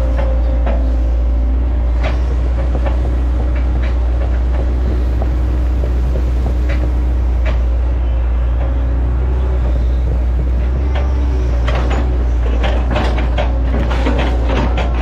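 Hitachi ZX110 excavator's diesel engine running steadily under hydraulic load, with a steady whine and scattered knocks and cracks that come thicker near the end.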